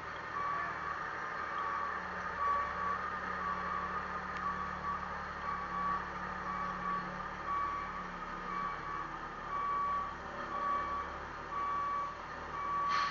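Electronic beeper sounding a single high tone in short, evenly spaced beeps, the kind of pattern a vehicle's reversing alarm makes, over a steady noise of road and wind.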